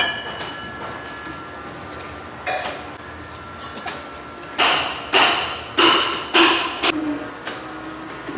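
Metal being struck: one sharp clang with a ringing tail at the start, then five heavier knocks about half a second apart.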